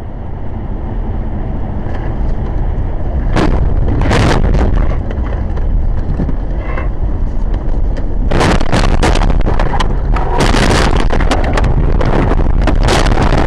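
A car on the move heard through a dash camera's microphone: a heavy, steady rumble of road and wind noise, with sharp knocks and rattles at about three and four seconds in and many more from about eight seconds on.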